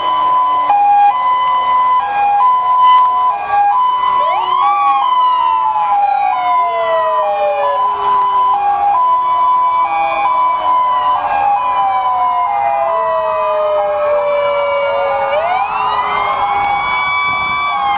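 Several emergency vehicle sirens sounding together: a two-tone hi-lo siren switching steadily between two pitches, overlapped by wailing sirens that rise and then slowly fall.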